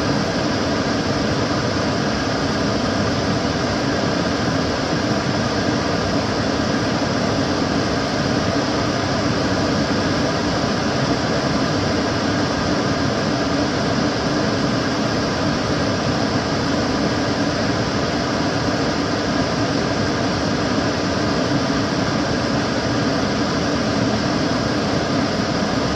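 Kitchen cooker hood's extractor fan running steadily: a constant rush of air with a low hum and faint steady tones, unchanging throughout.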